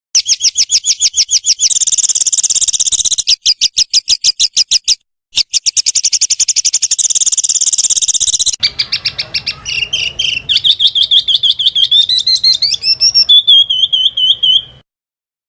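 A small songbird's rapid-fire song: fast strings of sharp, evenly repeated high notes, broken by a short pause about five seconds in. A little past halfway it changes to a lower, warbling trill with rising notes, which cuts off abruptly near the end.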